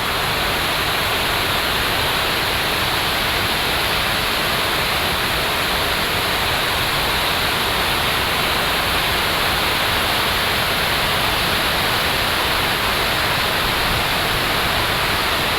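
Steady, loud rushing of water, an even hiss with no breaks.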